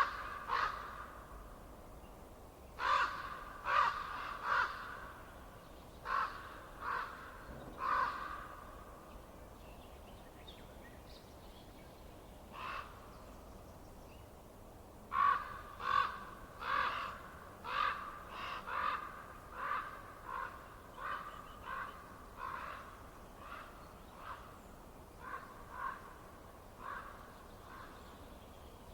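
A bird calling repeatedly with short, harsh calls: a handful near the start, then, about halfway, a long evenly spaced run that grows fainter.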